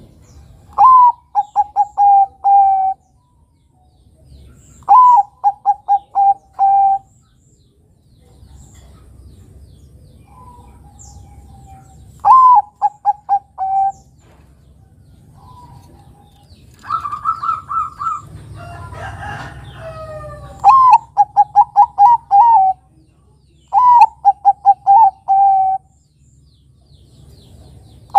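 Zebra dove (perkutut, Bangkok type) cooing. About six separate phrases, each a higher opening note that drops into a quick run of short staccato coos. About two-thirds through comes a busier stretch of higher, overlapping calls.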